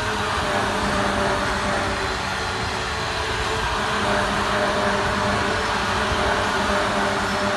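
Train passing close by at a level crossing, with a steady rolling rumble of wheels on rail and a low hum under it.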